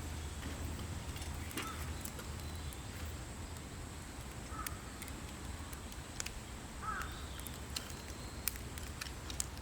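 A wood fire in a fire pit crackling with sparse sharp pops, while a crow caws three times in the background.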